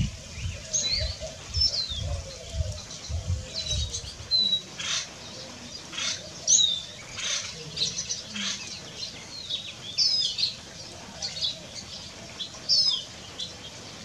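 Several small birds chirping and calling: short high chirps and down-slurred whistled notes, about one every second. Soft low thuds in the first few seconds.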